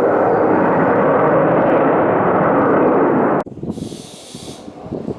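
Loud, steady jet roar of a US military fighter flying low, which stops abruptly about three and a half seconds in. It gives way to much quieter wind noise on the microphone, with a brief hiss just after the cut.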